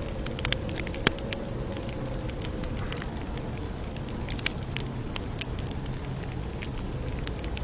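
Campfire crackling: a steady low rumble of burning wood with irregular sharp pops and snaps.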